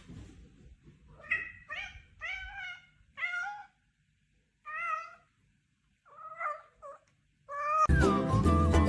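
A cat meowing over and over: about ten short meows in quick runs, with short pauses between the runs. Loud music starts abruptly near the end.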